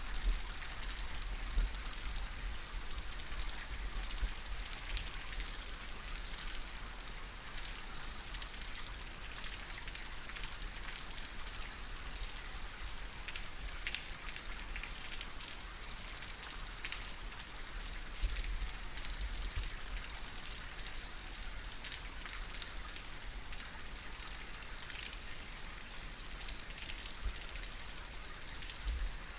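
Steady rain falling, a continuous hiss with many small drops ticking close by.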